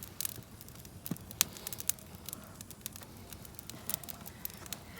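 Wood fire in a fire stand crackling, with irregular sharp pops and one loud pop about a second and a half in.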